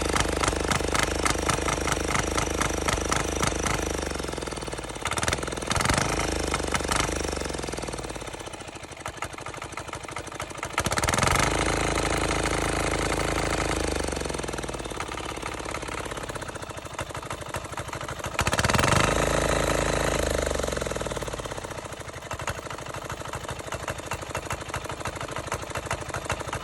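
Small Yanmar-clone diesel engine fitted with a homemade turbocharger, running and being revved up three times, each time settling back toward idle. A faint high whine falls away after the revs as the turbo spools down.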